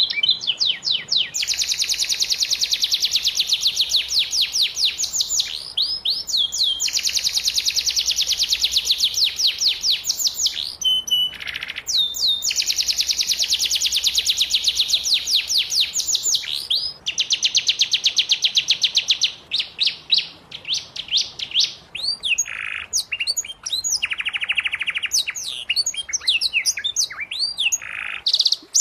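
Domestic canary singing: long, rapid trills of repeated high notes, each held for several seconds, with short breaks between them. In the last third the song turns into quicker, more varied phrases.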